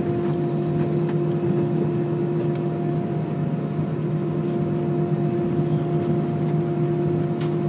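Airbus A320 jet engines and airflow heard from inside the passenger cabin during departure: a steady rushing noise with a constant hum under it.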